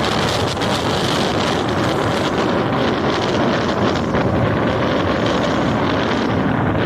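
Rough sea breaking steadily, with strong wind blowing across the microphone.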